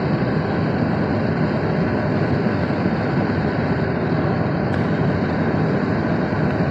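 Steady road noise of a moving car heard from inside the cabin: tyres and engine running evenly, with no change in loudness.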